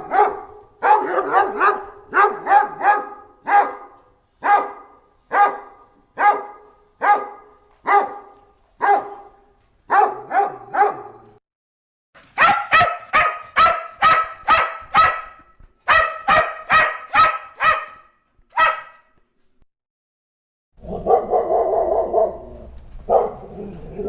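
Dog barking repeatedly: a long run of barks at about two a second, a short pause, then a faster run of sharper barks. Near the end comes a longer, lower sound.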